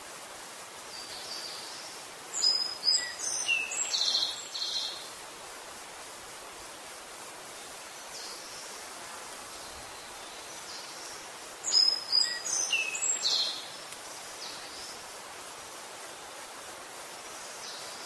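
A songbird sings the same short, intricate phrase of quick high notes twice, about nine seconds apart, over a steady hiss of outdoor ambience.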